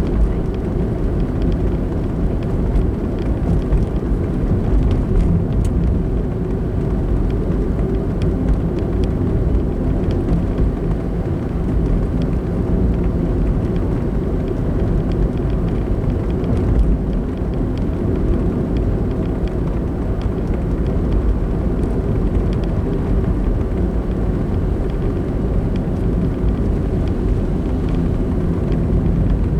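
Steady low rumble of a car driving along at an even pace: engine and tyre road noise, with no distinct events.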